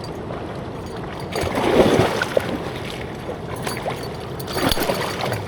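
River water splashing and sloshing, swelling twice, against a steady rushing background.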